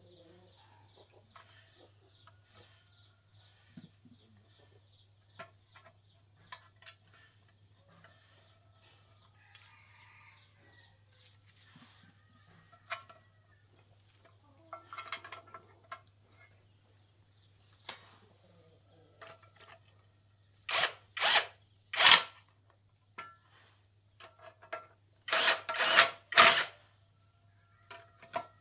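Scattered light clicks and knocks of tool handling over a faint steady hum, then several short, loud power-tool bursts of about half a second each in the last third, in two groups.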